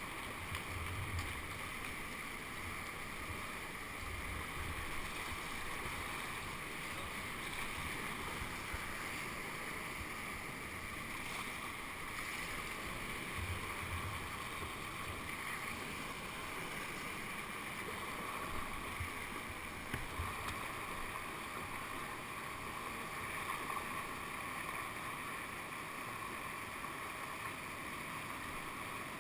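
Steady rush of whitewater in a man-made whitewater channel, heard from a kayak on the water, with a few brief low thumps.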